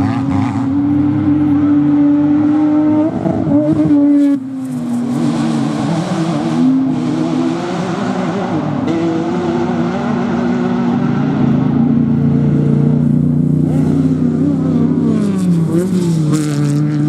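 Engines of off-road racing trucks and buggies running and revving, several at once, their pitch rising and falling as they accelerate and back off. The sound changes abruptly about four seconds in.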